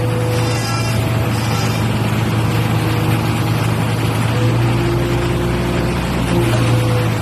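Boom crane truck's engine running steadily at a constant speed: a low hum, with fainter higher tones that fade in and out.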